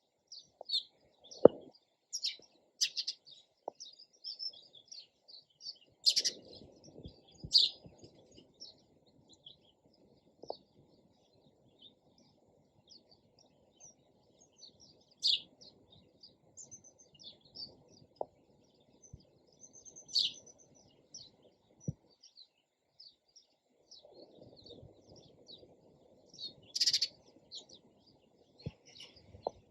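Sparrows chirping: many short, irregular chirps, with a louder chirp every few seconds.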